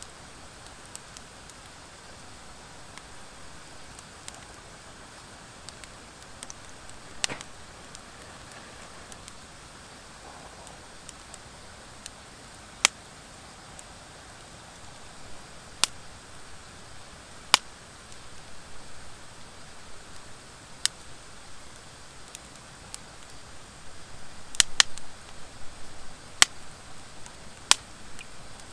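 Wood fire burning with a steady low hiss and sharp, scattered crackling pops, about ten in all and closer together near the end. The pops come from the dry hardwood firewood mixed in among driftwood, which on its own burns without crackling.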